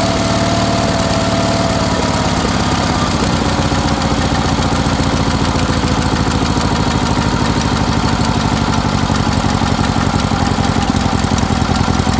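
A 1975 Sears SS18 garden tractor's twin-cylinder Onan engine running steadily, with a whining tone that shifts lower about two seconds in.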